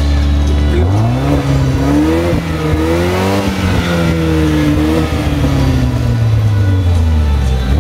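Opel Astra OPC's turbocharged 2.0-litre four-cylinder engine being revved while parked. It idles, then climbs about a second in and is held up with the revs rising and falling a few times. It eases back down to idle near the end.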